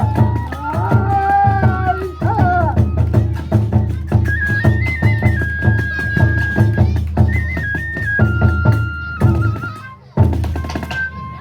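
Kagura accompaniment: taiko drums beating a fast, steady rhythm with a bamboo flute playing a held, stepping melody over it. The music drops away briefly about ten seconds in, then resumes.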